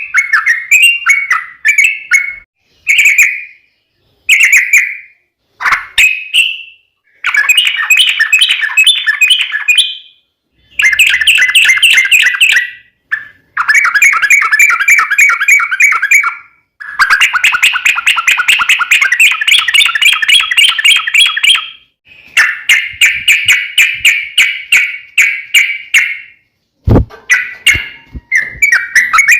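Yellow-vented bulbul (trucukan) singing in bouts of fast, rapidly repeated chattering notes, each bout a few seconds long with short pauses between. A sharp click comes near the end.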